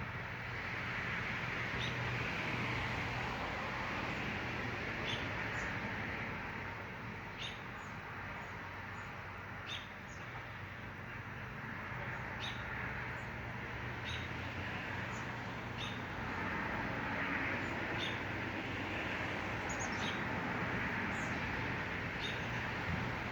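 Small birds chirping: short, high chirps repeated every second or two over a steady rushing background and a low hum.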